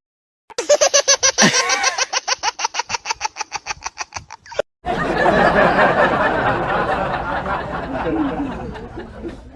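Laughter in two edited clips. First comes a rapid run of 'ha-ha' pulses, several a second and slowing a little. After an abrupt cut, several voices laugh together, fading toward the end.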